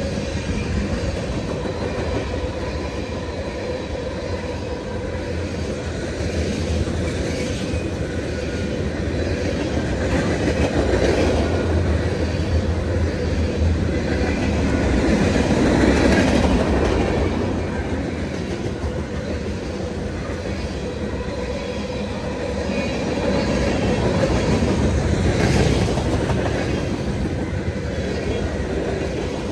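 Train rolling past on the rails, a continuous rumble of wheels on track that swells louder about halfway through and again near the end.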